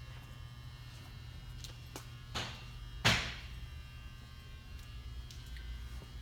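Steady low electrical hum with a faint buzz, and two brief rushing noises about two and a half and three seconds in, the second one louder.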